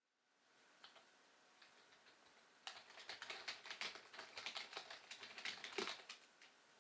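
Keys of a computer keyboard being typed on: two single clicks, then a fast, uneven run of keystrokes lasting a few seconds.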